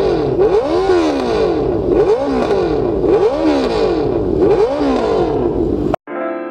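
Honda CBR650F inline-four through an aftermarket exhaust, revved in repeated throttle blips at a standstill, about one a second, each rising and falling in pitch. It cuts suddenly to music near the end.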